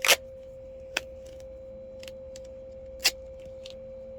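Duct tape being pulled and torn off the roll: three short, sharp rips, the first right at the start and loudest, then two more about a second and three seconds in, over a steady background hum.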